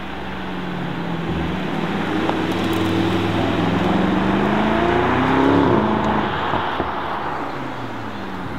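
Mercedes-AMG SL63's 4.0-litre twin-turbo V8 accelerating away. The engine note climbs in pitch and gets louder to a peak about five and a half seconds in, then fades. Near the end another car's engine runs at lower revs.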